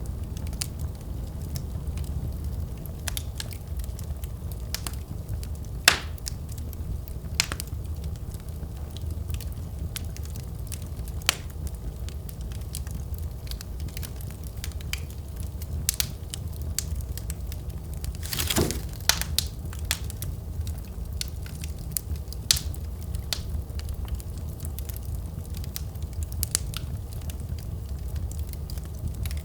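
Wood fire crackling in a fireplace: a steady low rumble with scattered sharp pops and snaps. The sharpest pop comes about six seconds in, and a quick cluster of louder crackles comes about two-thirds of the way through.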